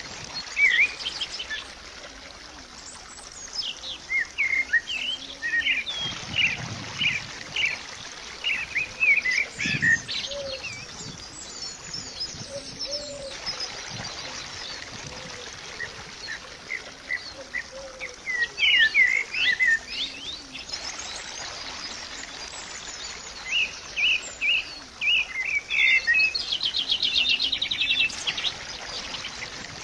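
Small birds chirping and singing in groups of short, high chirps with pauses between them, with a fast trill near the end.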